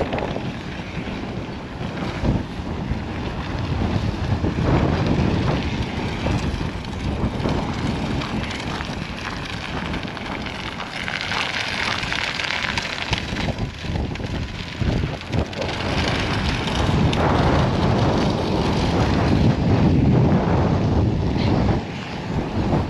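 Strong blizzard wind gusting and buffeting the microphone, rising and falling in strength, with a stretch of hissing about halfway through.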